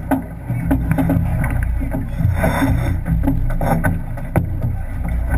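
Sailing yacht under way in a race, heard from on board: a steady low wind rumble on the microphone, with scattered knocks and clicks.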